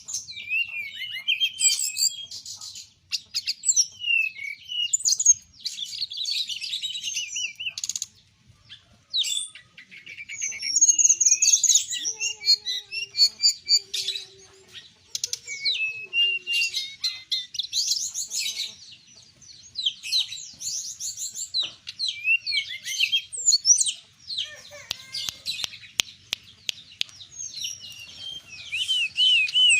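A songbird singing energetically: fast, high chirps, trills and whistled glides in long bursts broken by brief pauses.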